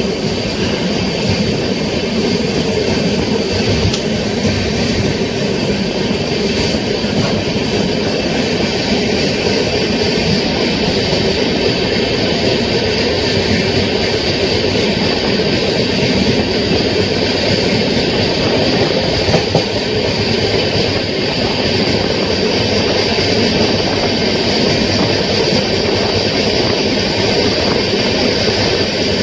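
Passenger train running at speed, heard from on board: a steady rumble and rattle of the coaches with a faint clatter of wheels over the rail joints, and one short knock about two-thirds of the way through.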